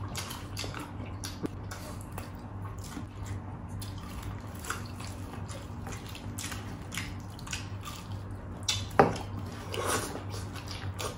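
Close-up wet eating sounds: lip-smacking, chewing and small squishy clicks from two people eating rice and chicken with their hands. A louder click stands out about nine seconds in.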